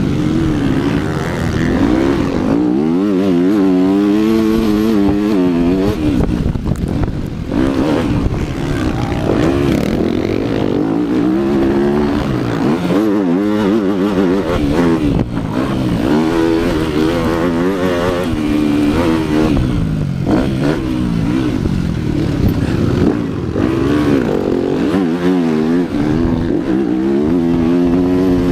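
Motocross bike engine revving up and down as it is ridden, its pitch rising and falling every second or two.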